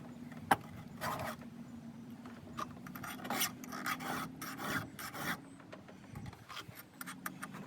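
A file rasping across the cutters of a 3/8 semi-chisel chainsaw chain in a run of short strokes. It is putting a new edge on teeth that were rounded off and had stopped taking chips.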